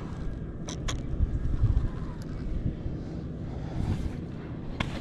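Wind buffeting the microphone as a low rumble that swells briefly about a second in, with a few light clicks and knocks near the start and near the end.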